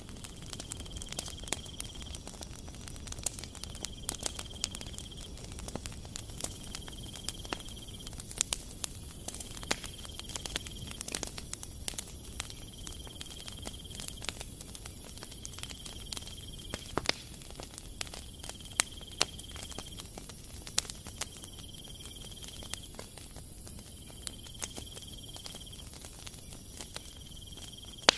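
Hands squeezing and kneading crumbly shortcrust cookie dough on a wooden cutting board, with soft crackles and scattered small clicks.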